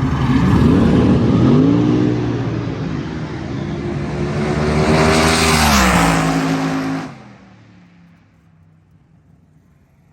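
Super Comp dragster V8 engines revving hard on the drag strip in two rising-and-falling surges, then dropping away abruptly about seven seconds in.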